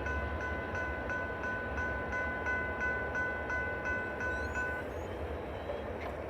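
Electronic railroad crossing bells ringing at about three strokes a second over the low rumble of a passing freight train. The bells cut off suddenly about five seconds in, as the crossing clears after the train.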